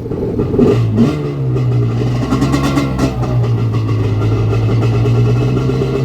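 Two-stroke Yamaha jet ski engine idling on land, running with a steady low drone; about a second in its pitch steps up and then holds steady.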